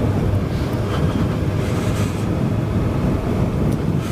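Suzuki GSX-S1000's inline-four engine running steadily while riding, with wind rushing over the microphone.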